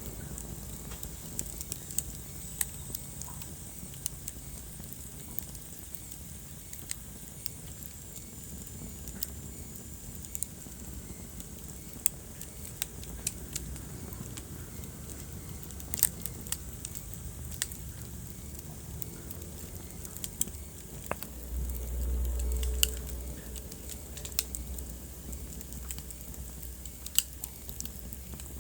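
Wood fire crackling, with irregular sharp pops over a low steady rumble of burning; a brief swell of low rumble about three quarters of the way through.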